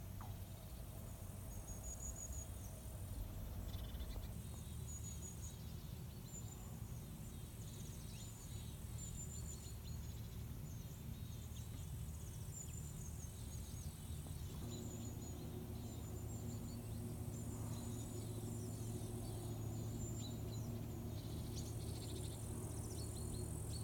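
Quiet outdoor evening ambience: many short, high chirps go on throughout over a steady low hum, which grows louder about halfway through.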